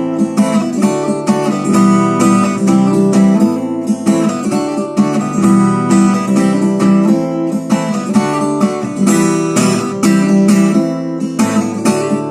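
Acoustic guitar strummed in a steady rhythm of chords, an instrumental interlude between sung verses.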